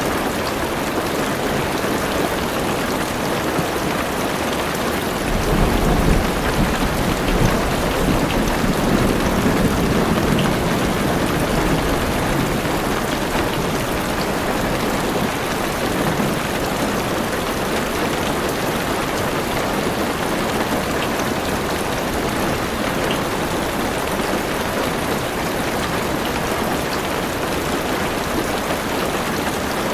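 Heavy rain drumming on a car roof and windows, a dense steady patter. A low roll of thunder swells in about five seconds in and rumbles for several seconds before fading back under the rain.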